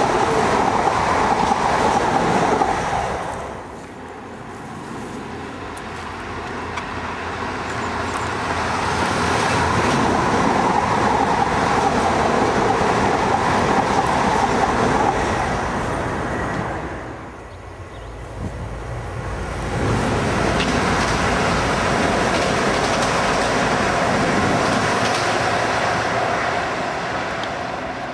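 First Great Western diesel multiple unit passing close by, a loud steady rumble of engine and wheels on rail. It drops briefly twice, about four seconds in and again about eighteen seconds in.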